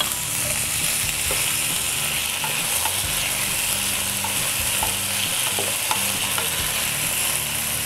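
Raw potato cubes sizzling in hot oil with cumin seeds in a frying pan while being stirred with a wooden spatula: a steady hiss with scattered light knocks and scrapes of the spatula.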